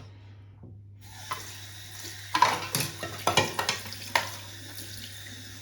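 Light clicks and knocks of shower mixer parts being handled and fitted during reassembly, about six in all, over a steady low hum and faint hiss.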